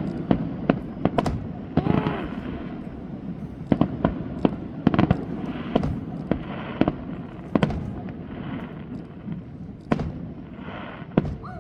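Fireworks display: shells bursting in an irregular run of sharp bangs, several followed by about a second of crackling from the bursts.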